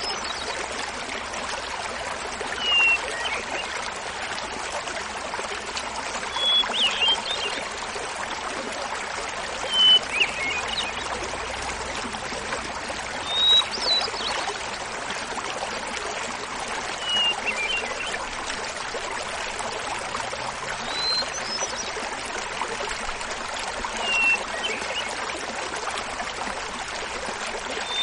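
Small mountain waterfall babbling steadily while a hermit thrush sings seven flute-like phrases, one about every three and a half seconds. Each phrase opens on a clear held note and breaks into a quick flurry of higher notes, starting at a different pitch each time.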